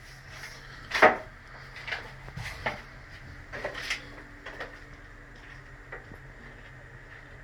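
Irregular knocks and clatters, about eight over the first six seconds, the loudest about a second in.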